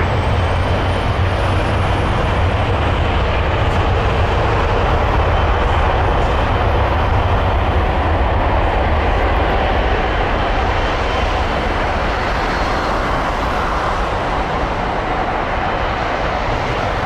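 Boeing 777 jet engines running steadily while taxiing: a loud, even rumble with a faint high whine that rises and falls, easing slightly in the second half.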